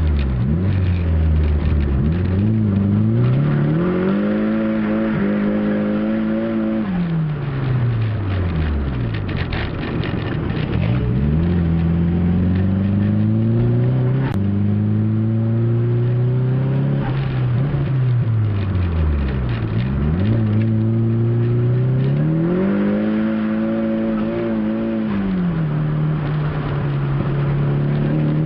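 Car engine revved up, held at higher speed, then let back down three times, settling to a steady lower speed near the end. The owner judges the engine finally seems OK after the repair.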